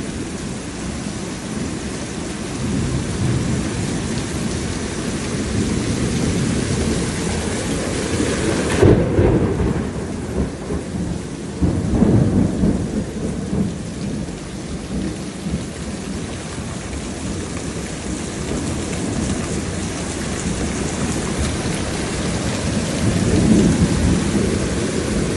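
Heavy rain pouring steadily in a storm, with a low rumbling that swells up a few times.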